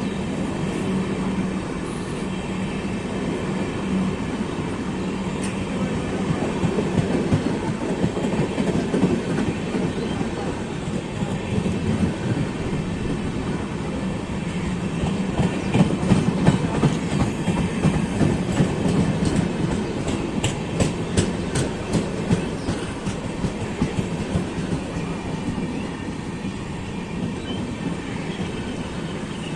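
Train of LHB passenger coaches rolling past, wheels clicking rhythmically over rail joints with a continuous rumble, with a run of sharper clicks about two-thirds of the way through.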